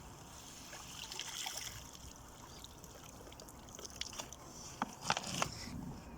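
Water trickling and splashing, with several sharp knocks about four to five seconds in.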